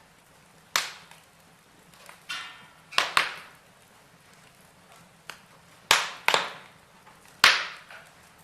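Wood fire of burning logs in a fireplace crackling, with about six sharp pops, two close pairs among them, and a brief hiss a little over two seconds in.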